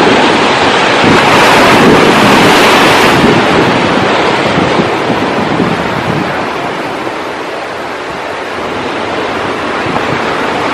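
Ocean surf breaking and washing ashore, with wind buffeting the microphone. A wave crashes with a bright hiss about a second in, then the wash eases off and the next swell builds again near the end.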